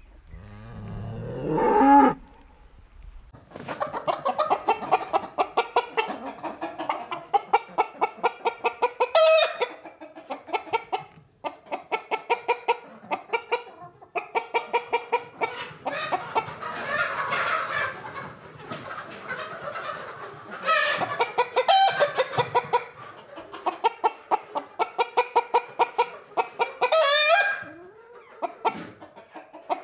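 Chickens clucking in rapid runs of short pitched notes, with a few higher sliding squawks in between. A short rising call opens it.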